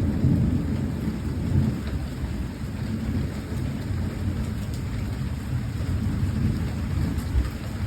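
Thunder rumbling low and dying away over the first couple of seconds after a clap, then a softer rumble going on under steady rain.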